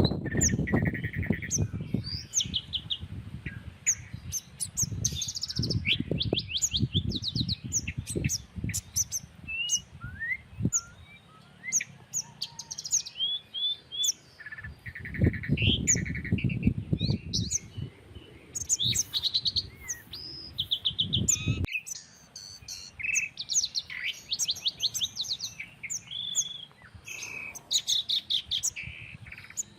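Several small birds chirping and trilling back and forth in many short overlapping calls. Wind rumbles on the microphone in gusts and cuts off abruptly about two-thirds of the way through, leaving the calls alone.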